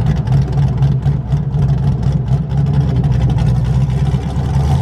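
Pontiac Trans Am's cammed engine idling with a choppy, lopey beat, the uneven pulse of an aggressive camshaft.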